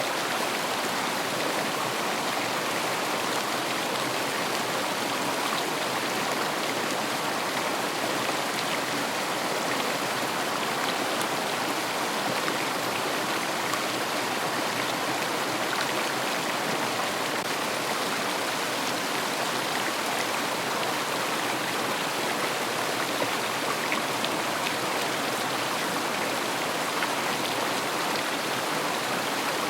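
River water running over stones: a steady rushing and babbling that does not change.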